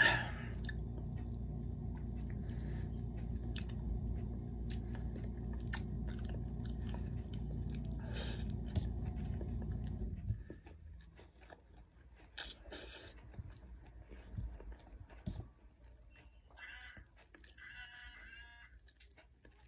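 A person chewing mouthfuls of biryani close to the microphone, with short wet clicks and smacks scattered through. Under it, a steady low hum, the loudest sound, runs for about the first ten seconds and stops abruptly.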